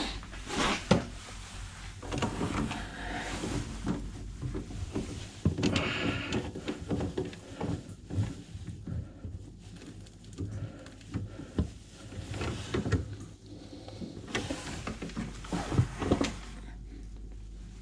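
Irregular knocks, clicks and rattles of hands and tools working on a sink's waste trap and pipework, with a faint steady low hum underneath.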